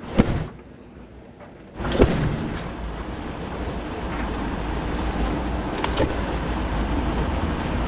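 Gasoline sprayed onto a conventional electric clothes dryer's heating element: a short spray just after the start, then about two seconds in it catches with a sudden whoosh and keeps burning with a steady rushing noise and low rumble.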